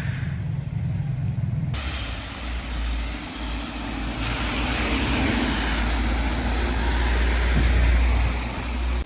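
Motor vehicle running with a low rumble and road noise. The sound changes abruptly about two seconds in to a broader, rumbling noise that grows louder toward the end, then cuts off.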